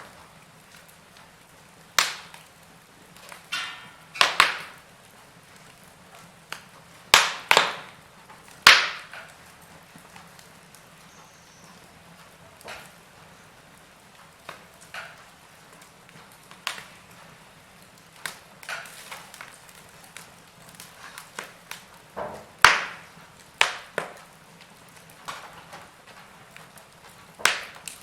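Logs burning in a fireplace, crackling with irregular sharp pops and snaps every second or few, a handful of them loud, over a faint steady background.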